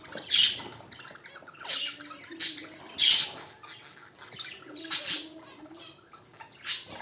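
Small cage birds, budgerigars and zebra finches, calling: about half a dozen loud, sharp chirps at irregular intervals over softer continuous chatter.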